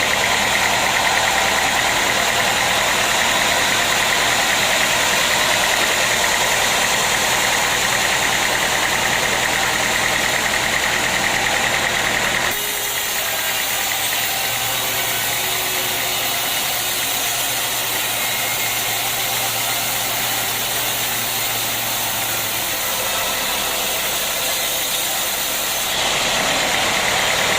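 Sawmill machinery running steadily with a motor hum. The sound drops abruptly to a lower, quieter level about halfway through and rises again near the end.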